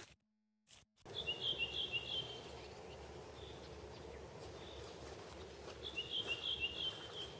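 A small songbird singing two short phrases, each a quick run of repeated high chirping notes, the first about a second in and the second near the end, over faint steady outdoor background noise.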